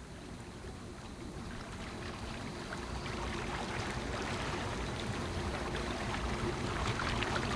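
Boat motor running steadily at slow trolling speed, with a wash of water and wind around it, slowly growing louder.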